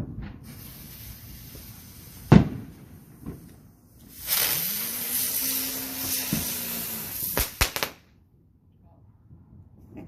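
Consumer fireworks going off: a hissing spray with one sharp bang about two seconds in, then a louder, longer hiss ending in two quick pops.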